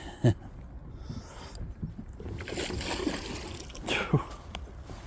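Water splashing at a boat's side as a small hooked pike twists at the surface, with a louder stretch of splashing around the middle and two short sharp sounds, one just after the start and one about four seconds in.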